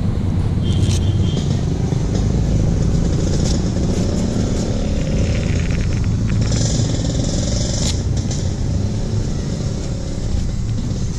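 CFMoto NK400 motorcycle engine running steadily on the move, still on its stock exhaust, under a dense low rumble of wind and road noise.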